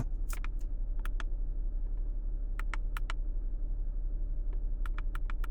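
Buttons on a handheld VDIAGTOOL VD30 Pro OBD2 scanner clicking in quick pairs every second or two, over a steady low hum.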